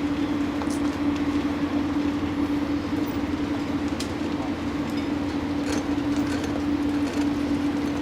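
A steady mechanical drone with a constant low hum and a few faint clicks.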